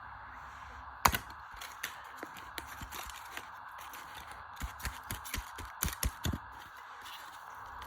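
Tumble dryer driven fast by a fitted washing-machine motor, a steady whir with irregular knocks and clatters as loose parts bang about; one sharp knock about a second in and a cluster of knocks in the second half.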